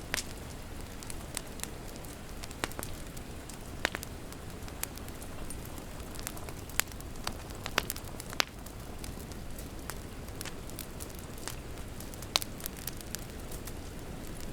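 Wood fire crackling, with sharp pops at irregular intervals, over a steady hiss of rain.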